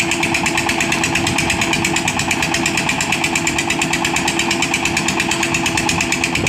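Heavy diesel engine of construction machinery running steadily, with a fast, even pulse and a strong steady hum.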